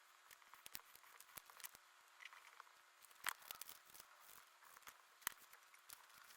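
Faint rustling, crinkling and small clicks of paper and stickers being handled while making a collage, with two sharper clicks about three and five seconds in.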